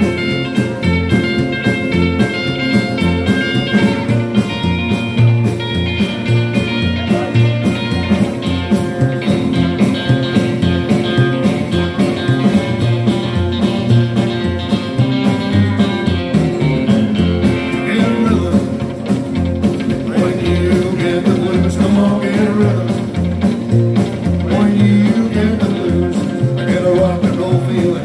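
Live rockabilly band playing an instrumental break: electric guitar picking a lead line over a steady bass and rhythm beat.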